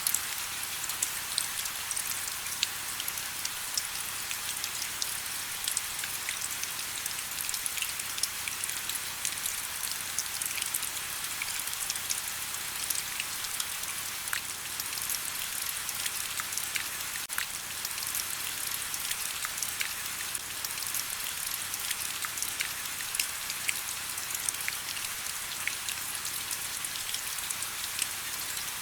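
Steady rain falling, a continuous hiss thick with the light ticks of individual drops hitting.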